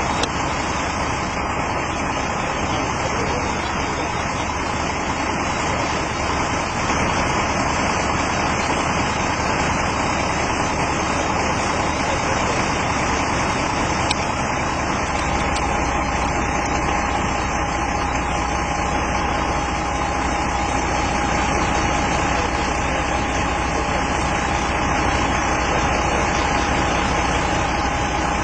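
Steady motor-vehicle engine idling under a constant noisy hiss; a thin steady tone comes in about halfway through.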